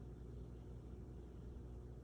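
Faint steady low hum with a few steady tones, and no clicks or other distinct events.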